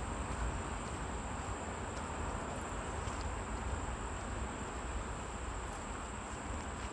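Summer woodland ambience: a constant high-pitched insect drone over an even rushing background and a low rumble.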